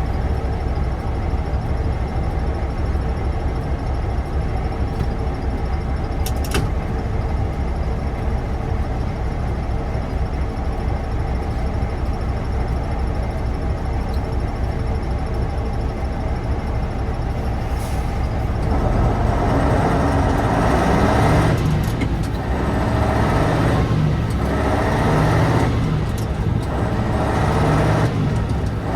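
Air-cooled V10 diesel of a 1988 Tatra 815 dump truck, running steadily at first, then about two-thirds of the way through working louder, with several short drops in the revs such as come with gear changes under way. A couple of sharp clicks are heard before the engine picks up.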